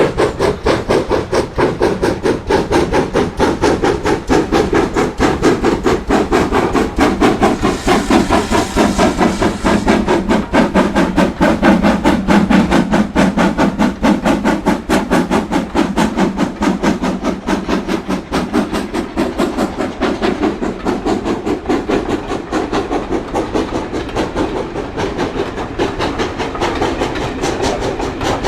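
Steam locomotive running, its exhaust chuffing in a fast, steady rhythm, with a burst of hissing steam about eight seconds in.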